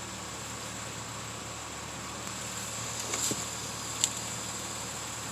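Steady background hum with two light clicks, one about three seconds in and a sharper one about a second later.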